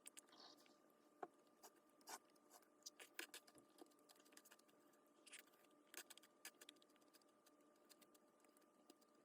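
Faint, scattered small clicks and taps, irregular and clustered in the first two-thirds, over a steady faint hum.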